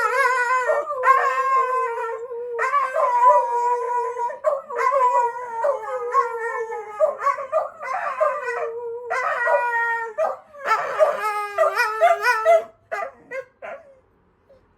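Dogs howling at a fire engine's siren: long, wavering howls in overlapping voices, each held for one to two seconds. Near the end they break into shorter calls and trail off in a few brief yips.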